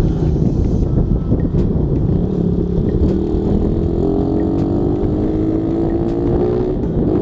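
Suzuki Raider 150's single-cylinder four-stroke engine running under way, with heavy wind rumble on the microphone. About three seconds in, the engine pitch climbs steadily as it accelerates, then falls away near the end.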